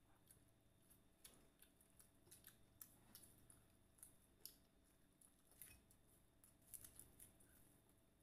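Faint crunching and chewing of crispy fried chicken breading, heard as scattered short crisp clicks.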